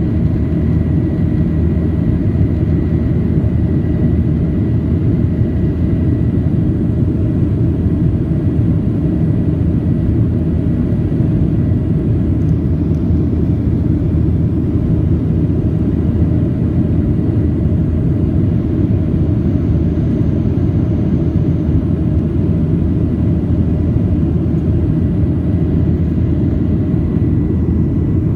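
Airliner cabin noise: a loud, steady low rumble of jet engines and airflow, with a faint steady whine above it, unchanging throughout.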